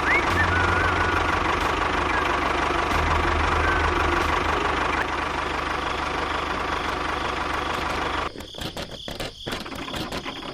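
A small engine running steadily with a low pulsing beat, cutting out suddenly about eight seconds in, followed by a few clicks.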